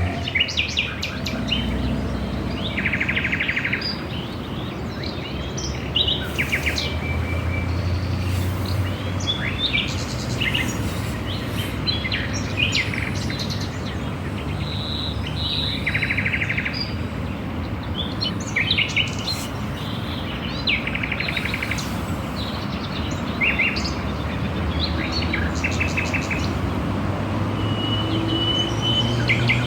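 Several wild birds calling and singing, with many short chirps, quick trills and buzzy notes overlapping. A low rumble runs underneath and swells near the start and again near the end.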